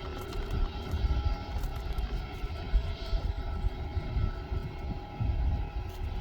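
Airliner engines running at a distance: a steady hum with a few faint held tones over an uneven low rumble.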